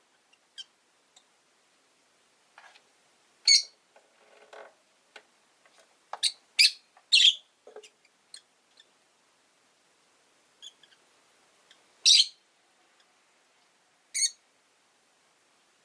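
Rosy-faced lovebirds giving short, shrill chirps, about half a dozen loud ones scattered through, with softer chattering between them.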